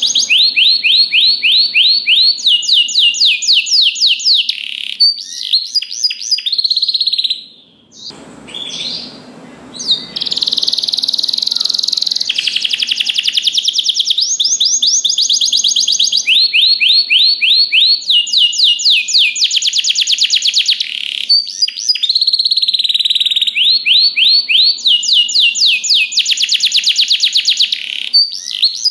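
Domestic canary singing a long song of rapid trills, each a fast run of repeated high notes, with a short break about eight seconds in.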